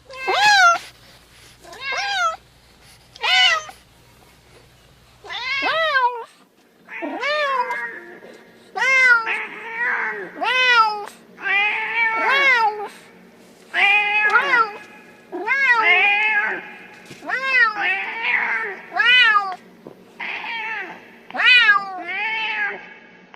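Domestic cat meowing over and over, about twenty short meows, each rising and then falling in pitch. The recording changes about six seconds in, and after that the meows come faster, roughly one a second.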